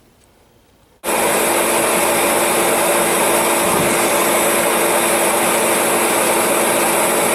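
Forced-air torpedo heater running: a steady whir of its motor and blower fan with rushing air, starting abruptly about a second in, as it is tried out on a new spark plug.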